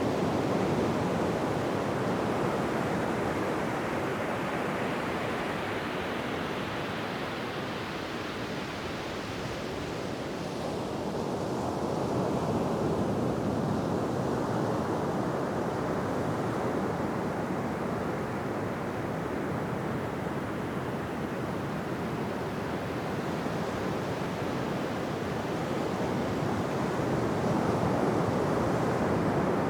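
Ocean surf washing on a beach: a continuous rushing of waves that slowly ebbs and swells, easing off around a third of the way in and building again after.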